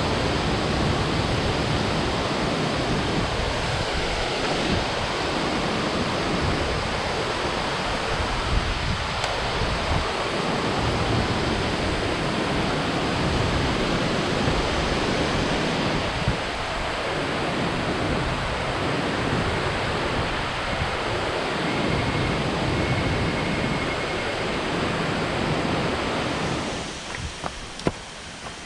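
Waterfall pouring, a steady loud rush of water. Near the end it drops off sharply and a few clicks are heard.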